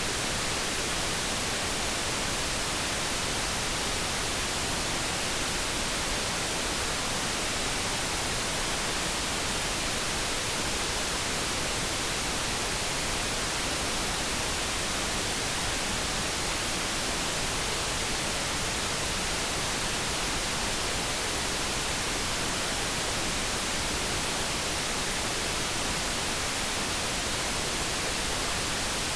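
Steady generated background noise, an even hiss with no changes in level. No kettle hum or other tone stands out.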